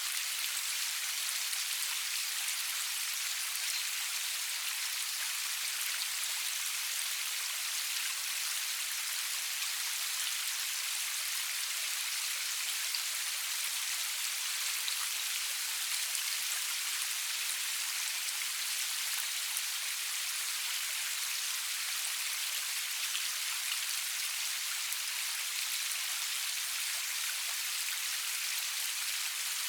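Steady rain falling, an even hiss with fine pattering of drops, no thunder.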